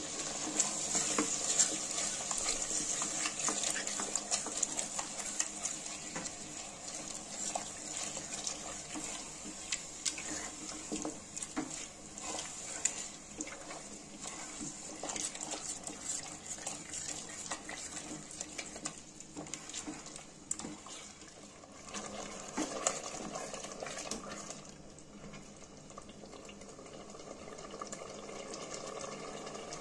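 Mutton and curd masala sizzling in a metal pot while a spatula stirs it, scraping and knocking against the pot. About 25 seconds in the stirring stops, leaving a quieter, steady sizzle as the masala cooks down until the oil separates.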